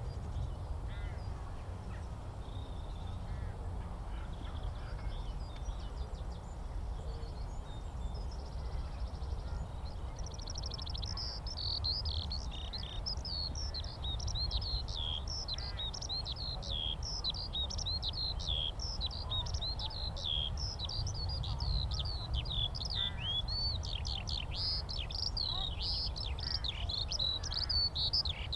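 Skylark song, faint at first, then from about a third of the way in a continuous stream of fast, high warbling and trilling notes that keeps on without a break. A steady low rumble runs underneath throughout.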